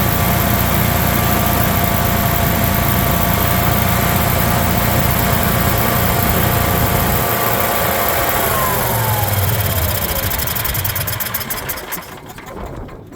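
Hard-starting Generac generator's engine spinning with a steady whine, then winding down: about eight seconds in the whine falls in pitch and the sound fades to a stop, with slowing ticks as it coasts out.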